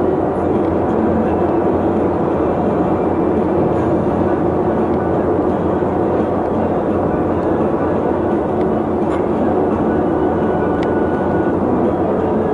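Steady vehicle rumble and road noise while travelling through city streets, even in level throughout.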